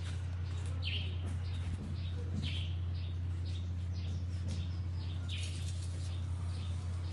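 Birds chirping, several short calls spread over a few seconds, over a steady low hum.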